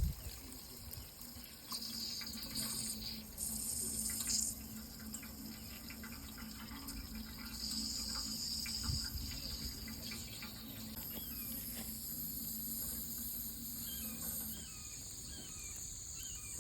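Running water making a steady wash, with insects keeping up high, steady trilling tones. A few faint short chirps come near the end.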